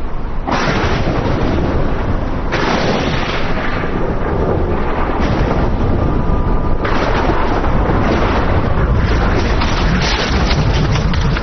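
Loud, continuous thunder-like rumbling from layered cartoon sound effects, its character shifting abruptly every couple of seconds, with a faint steady ringing tone in the middle of it.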